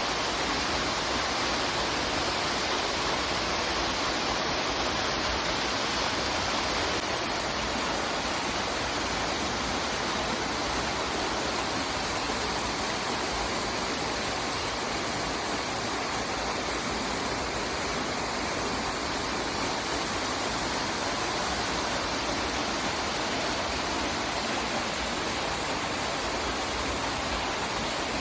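Waterfall: water falling and splashing with a steady, unbroken rush.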